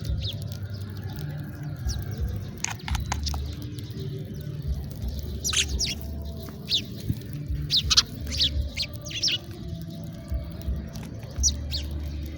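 House sparrows chirping: short high chirps in small clusters, several times, over a low background hum.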